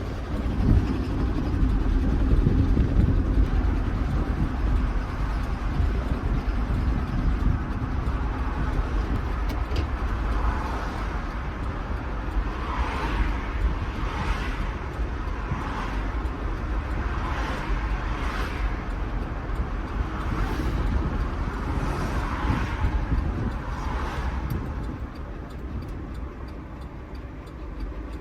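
GMC Yukon XL's 5.3-litre V8 running under way with its tyre and road noise, the engine carrying a bad rod knock. It is a steady low rumble, loudest in the first few seconds. Through the middle a higher hiss swells and fades about every second and a half.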